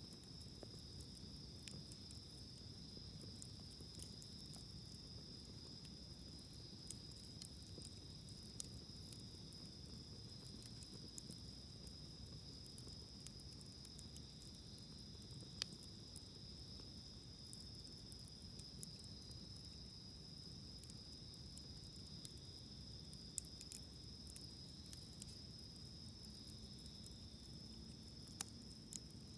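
A wood campfire crackling softly with scattered small pops and a few sharper ones, over a steady high, unbroken insect trill such as crickets.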